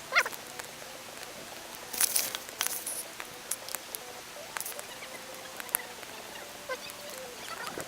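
Wood campfire crackling: scattered sharp pops and snaps over a faint steady hiss, with a brief cluster of snaps about two seconds in.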